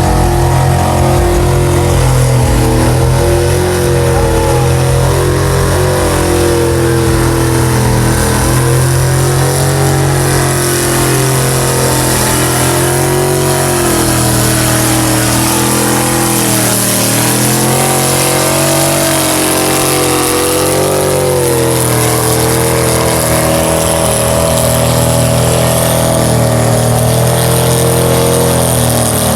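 Mega truck's engine running loud and revving up and down, its pitch rising and falling every few seconds.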